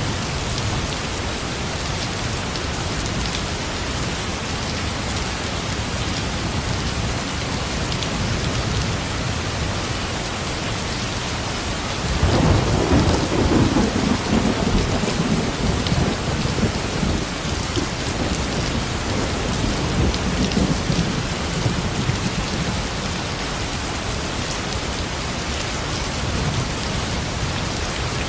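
Steady rain falling, with a roll of thunder rumbling in about twelve seconds in and fading away over several seconds.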